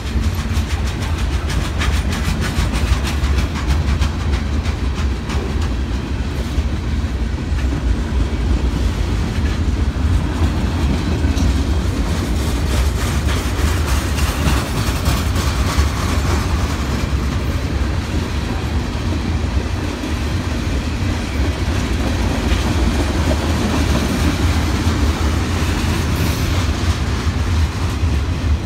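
Boxcars and tank cars of a long CSX freight train rolling past, a steady low rumble with the clickety-clack of wheels over the rail joints.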